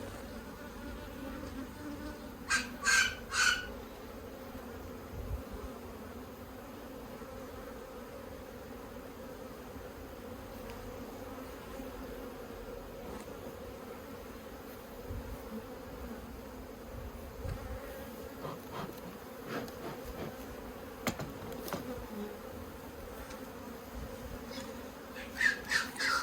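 A honeybee colony buzzing in a steady drone around an opened top bar hive. Three short, louder sounds come about three seconds in.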